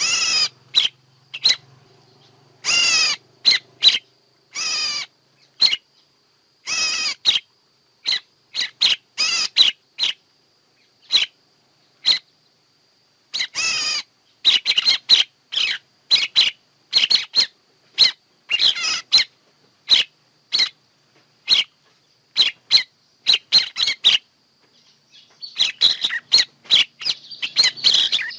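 Recorded bird calls played as a trapping lure: a string of short sharp calls mixed with longer wavering ones, coming faster and overlapping near the end. A faint steady high tone runs underneath.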